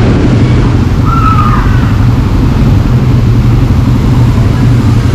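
Quad bike engine running steadily under way, loud and close.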